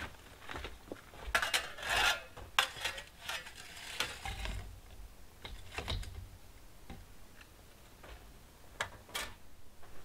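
Scattered light clicks and rustling scrapes, busiest in the first half, with no engine running.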